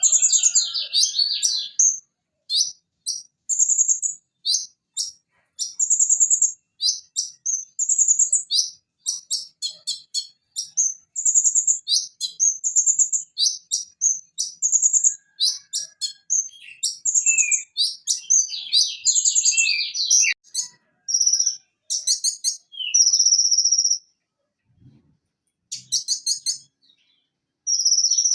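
Van Hasselt's sunbird (kolibri ninja) singing a fast, unbroken run of high, thin chirps and trills, with a couple of short pauses in the last few seconds.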